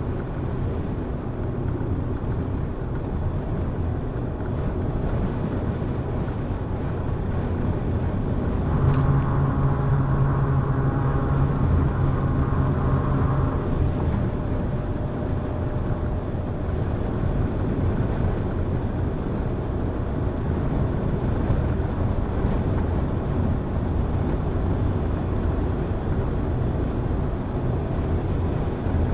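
A car driving: steady engine and road noise throughout, with a louder engine hum and whine for about four seconds from roughly nine seconds in.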